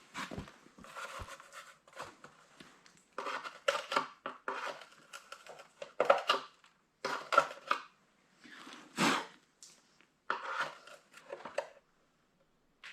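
Irregular scraping, clicking and rattling of a tail light assembly's plastic lens and parts and a screwdriver being handled, in uneven bursts with short pauses.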